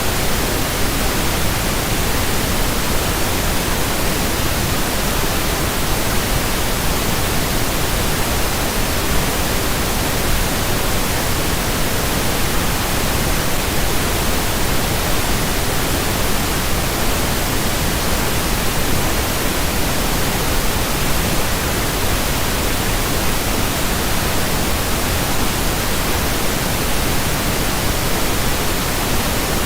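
Pink noise: a steady, even hiss across the whole range, with no change or events.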